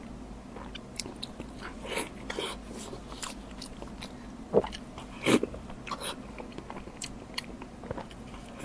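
Close-miked eating sounds: a person biting and chewing food, with scattered crunches and wet mouth clicks, the two loudest bites about four and a half and five seconds in.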